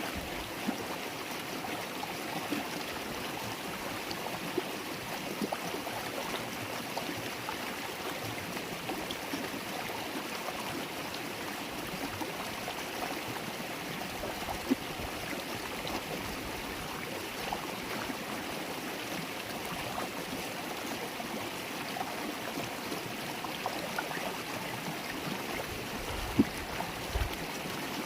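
River water flowing and babbling steadily, a shallow stream's even rush, with a few brief louder ticks, the sharpest near the end.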